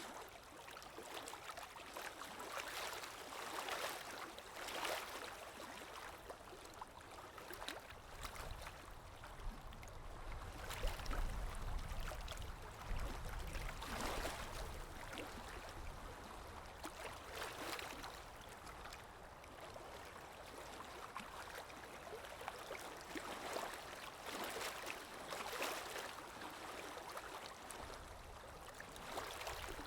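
Water lapping in small, repeated swells, with a low wind rumble that rises and falls about ten to fourteen seconds in.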